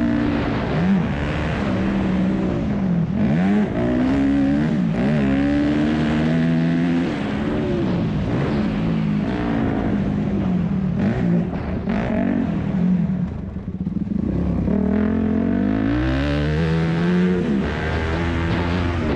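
2001 Yamaha YZ250F four-stroke single-cylinder motocross engine under hard throttle. Its pitch climbs and drops over and over as it revs and shifts, with a brief lull about two-thirds of the way through where the throttle is shut.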